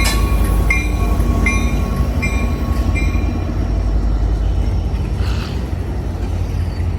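Amtrak Capitol Corridor passenger train rolling into the station with a heavy low rumble, a bell clanging about every 0.7 s for the first three seconds before stopping.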